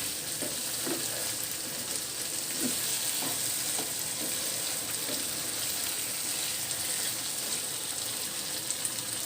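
Chicken pieces frying in spiced oil in a pan: a steady sizzle with light crackles. The water the meat released has cooked off, and the chicken is being fried dry in the masala.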